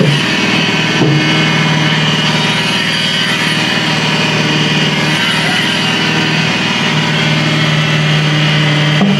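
Engine-driven concrete poker vibrator running steadily while compacting fresh concrete to drive out air bubbles. It holds one steady pitch, with a brief dip about a second in and a short rise in pitch near the end.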